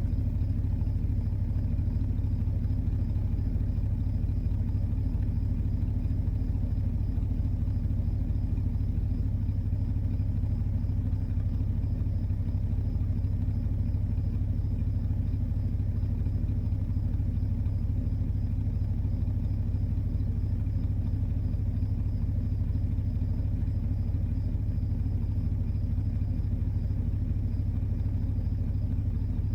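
Car engine idling steadily, a constant low rumble.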